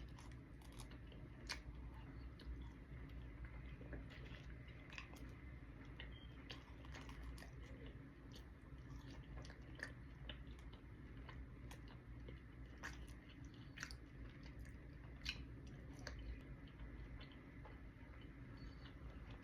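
A person chewing and biting into pizza, with irregular sharp crunchy clicks over a low steady background hum.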